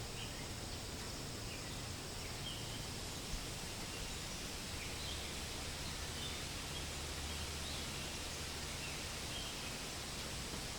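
Forest ambience: a steady hiss of wind through leaves with a low rumble underneath, and scattered short, faint bird chirps.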